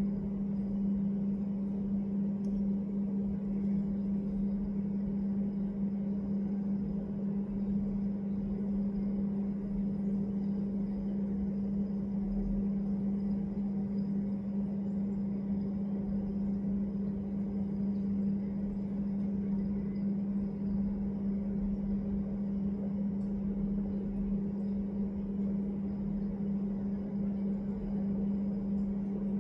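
A steady low hum that never changes, over a faint rumbling noise.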